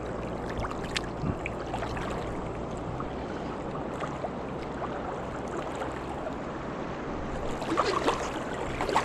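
River water rushing steadily, with a few short splashes or knocks near the end.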